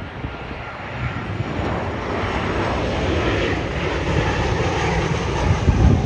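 Jet airliner's engines passing low overhead: a broad, steady roar that grows louder over the first two seconds and stays loud.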